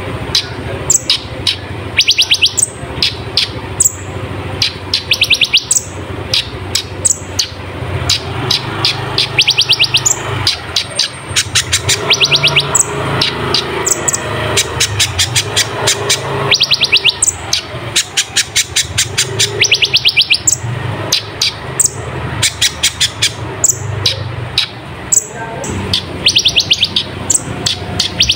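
Kolibri ninja sunbird singing in fast, high-pitched trills: quick runs of short sharp notes and downward sweeps, repeated every second or so, over a steady low hum.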